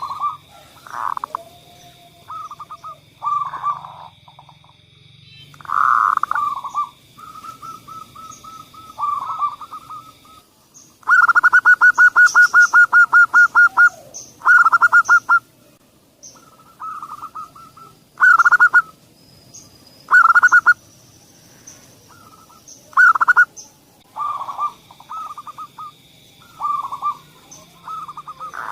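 Zebra doves cooing in short bursts of staccato notes, with a fast run of evenly pulsed notes, about seven a second, lasting some three seconds around a third of the way in. A thin steady high whine runs underneath at the start and again near the end.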